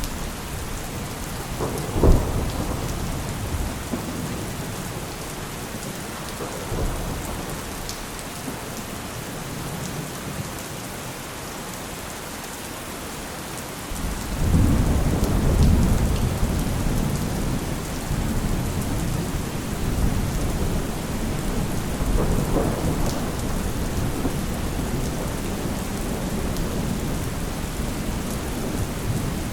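Steady heavy rain with thunder: a sharp crack about two seconds in, then a long low rumble that swells about halfway through and rolls on to the end.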